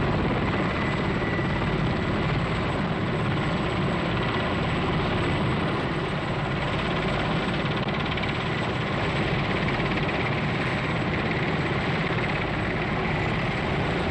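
Bristol Belvedere twin-rotor helicopter running in flight, a loud, steady rotor and engine din.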